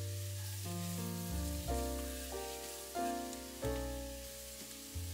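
Diced onions sizzling in hot oil in a pot, over background music whose notes change about every half second.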